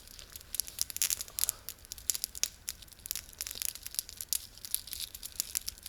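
A candy wrapper being handled and unwrapped, with irregular crinkling and tearing paper rustles.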